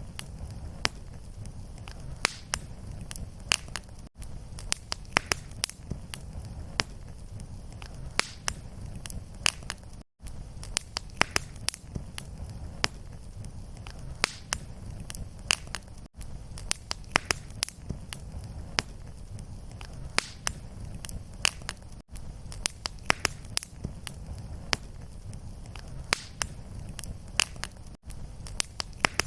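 Fireplace fire burning, with frequent sharp crackles and pops over a steady low rumble. The sound drops out very briefly about every six seconds where the fire recording loops.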